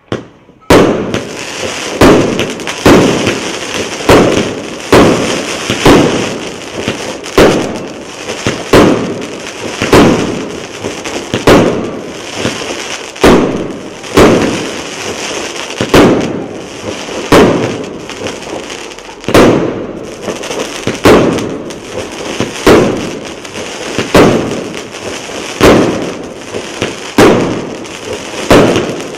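A 238-shot fireworks cake of 0.8- and 1.0-inch tubes firing shot after shot, a sharp report about every three-quarters of a second, with a crackling hiss from the bursting effects between the shots.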